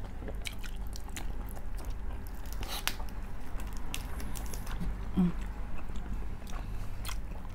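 A person chewing braised pork hock (pata tim) close to the microphone, with many scattered mouth clicks and smacks.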